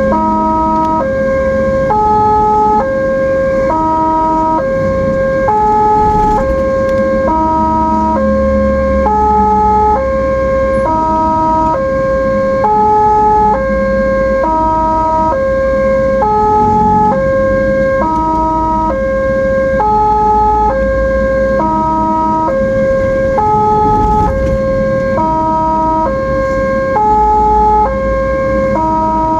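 Ambulance siren sounding a two-tone hi-lo wail, switching between a higher and a lower pitch about once a second without a break, over low engine and road rumble.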